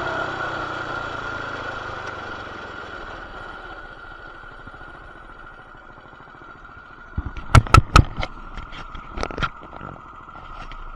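BT200X mini bike's small single-cylinder engine winding down from a rev, its sound fading steadily as the bike comes off the throttle. Then a run of sharp, loud knocks and clatter about seven to nine seconds in.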